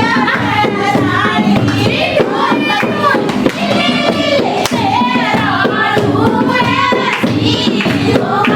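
Sung Hindi dehati folk song, a lokgeet, with several voices singing over musical accompaniment and hand claps.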